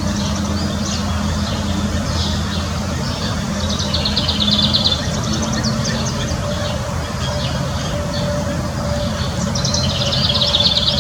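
A songbird singing a short, rapid trill twice, about four seconds in and again near the end, over a steady low mechanical hum.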